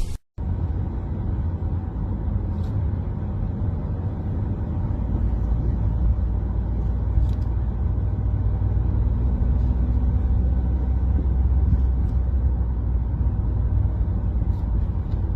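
Motor vehicle running, a steady low rumble with a few faint clicks.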